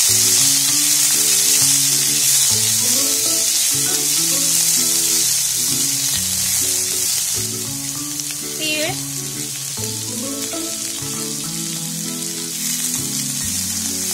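Chopped green tomatoes, peanuts and green chillies sizzling in hot oil in a nonstick pan while a silicone spatula stirs and tosses them. Background music with held, stepping low notes plays underneath.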